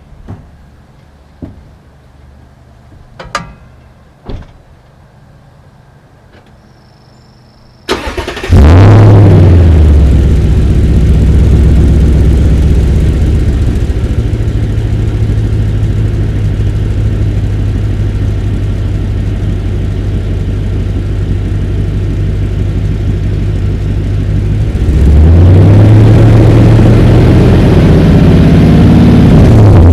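Toyota Tundra 5.7-litre V8 through a BAMuffler exhaust, heard right at the tailpipe and a little muffled. After a few sharp clicks, the engine starts about eight seconds in, flares up and settles to a steady idle. About 25 seconds in it is revved up, held at a higher speed for a few seconds, and drops back near the end.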